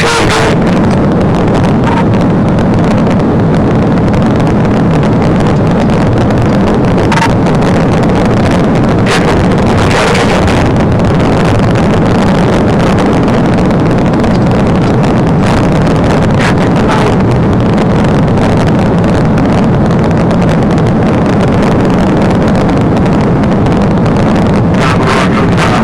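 Steady engine and road noise from a police patrol car driving at speed, with wind noise and a few brief clicks.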